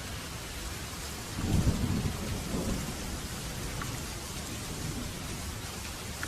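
Steady rain falling, with a low rumble of thunder that swells about a second and a half in and fades away over the next second or so.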